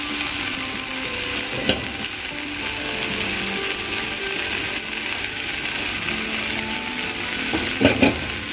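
Chopped taro stems sizzling steadily in oil in a nonstick frying pan. A few knocks of utensils against the pan come once about two seconds in and twice near the end.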